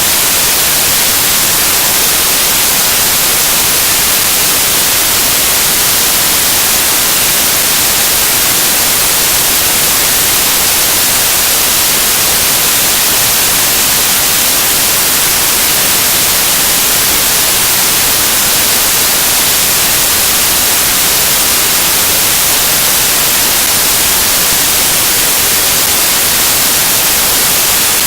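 Loud, steady static hiss like white noise, strongest in the high frequencies and unchanging throughout.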